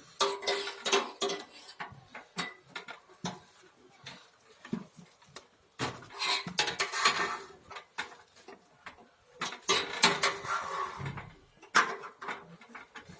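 Irregular metallic clinks and knocks of tools and metal parts being handled while a gas water heater's water valve is put back together, with a few short rustles.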